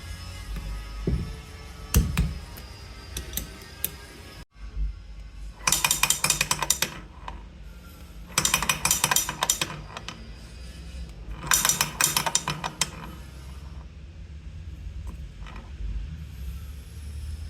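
Hand tools working on small engine parts: a few sharp metallic clicks, then three bursts of rapid clicking, each about a second long and a few seconds apart, over quiet background music.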